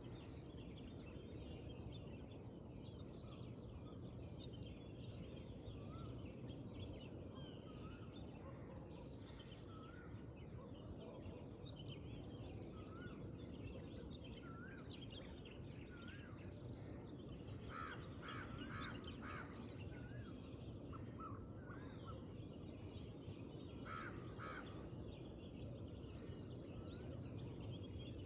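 Morning forest birdsong over a steady low background noise: short chirps scattered throughout, a run of about four louder calls two-thirds of the way in, and two more a few seconds later.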